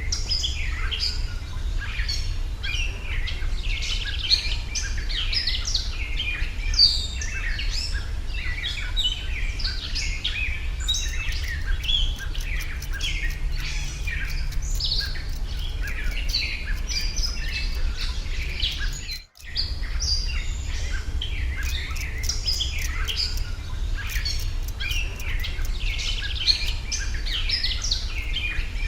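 A dense chorus of small birds chirping and singing, many calls overlapping, over a steady low rumble. The sound cuts out for a moment about two-thirds of the way through.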